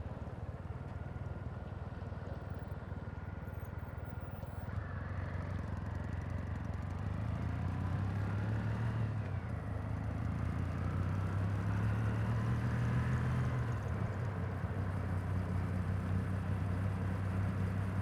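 Kawasaki W800's air-cooled parallel-twin engine heard close to its exhaust, running low and then pulling away from about five seconds in, getting louder. Its pitch climbs and falls back twice, as if shifting up through the gears.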